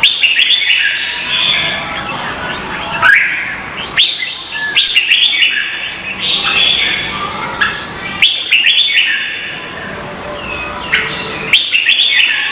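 Red-whiskered bulbul singing: bright, chirping song phrases repeated every few seconds, with short pauses between them.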